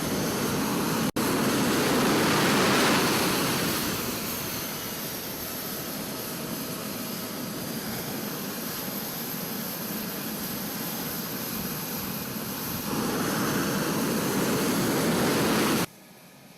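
Mitsubishi F-2 fighter's jet engine, a single General Electric F110 turbofan, running loud with a dense noisy roar. The sound breaks off for an instant about a second in, steps up in level near the end, then cuts off suddenly shortly before the end.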